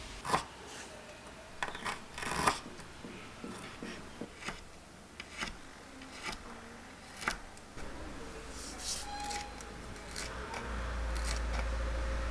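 Scattered light clicks, taps and rustles of small miniature kitchenware being handled. From about eight seconds in, a steady low hum joins them and grows louder near the end.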